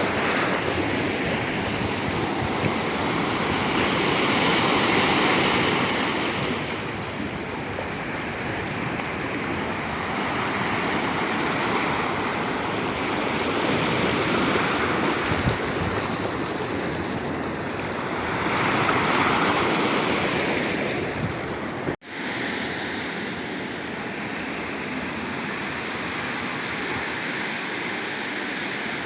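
Black Sea surf: waves breaking and washing on the shore, swelling loudest every few seconds. About two-thirds through, the sound drops out for an instant and comes back steadier and a little quieter.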